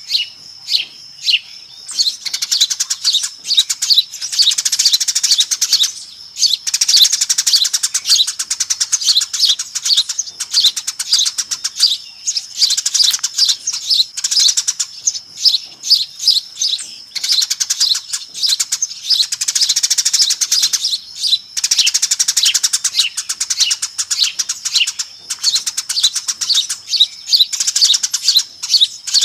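Eurasian tree sparrows chirping and chattering noisily as a flock, in dense rapid bouts a few seconds long broken by brief pauses. It is a lure call of the kind used to draw sparrows in.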